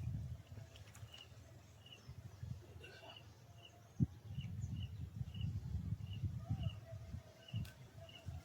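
A bird calling over and over in short, high chirps, about one to two a second, over a low rumble. A single sharp knock comes about four seconds in.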